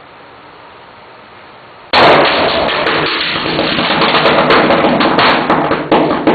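Pool chemicals igniting: a sudden loud burst about two seconds in, then a violent crackling, popping burn that lasts about four seconds, ending with a last sharp pop and dying away.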